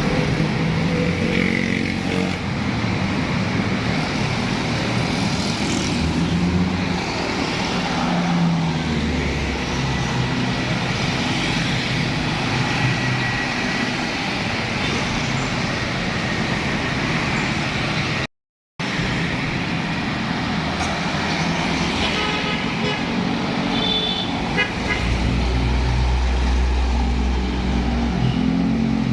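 Roadside traffic with heavy trucks and cars passing: steady engine and tyre noise, with low engine drones rising and falling as vehicles go by. A vehicle horn sounds briefly about three-quarters of the way in.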